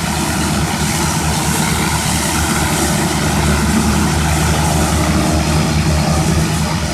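Propeller aircraft engine running steadily at idle, with wind rushing and buffeting over the microphone.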